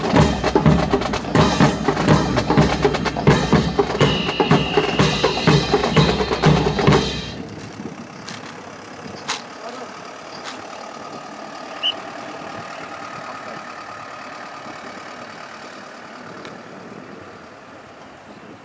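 Marching drum section, snare and bass drums, playing a loud rhythmic cadence that stops abruptly about seven seconds in. Quiet background and a couple of faint clicks follow.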